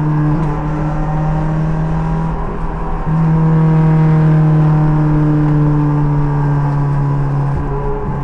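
Race car engine pulling at high, fairly steady revs, heard from the driver's seat. It gets louder about three seconds in, then eases slightly, with a brief dip in the note near the end.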